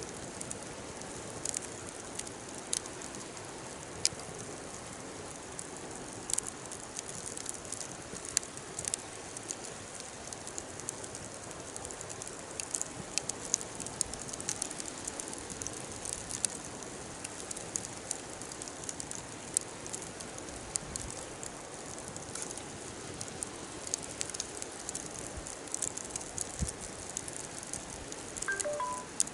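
Wood fire burning with a steady low crackle and many irregular sharp pops and snaps. A brief short pitched note sounds near the end.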